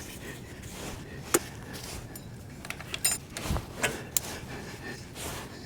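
A few sharp metallic clicks and clinks, with one dull thump, from hand tools working a hose clamp back into place. The clicks come singly about a second in and as a quick cluster about three to four seconds in, some ringing briefly.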